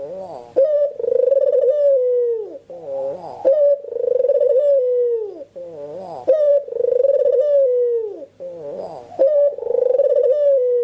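Barbary dove (puter) cooing in a repeated phrase: a long held coo that slides down at its end, followed by a few shorter wavering notes, about four times.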